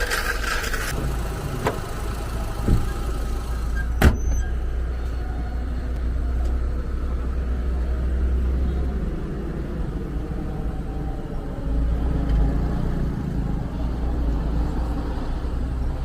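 Steady low rumble of a running car, with a few sharp clicks, the loudest about four seconds in.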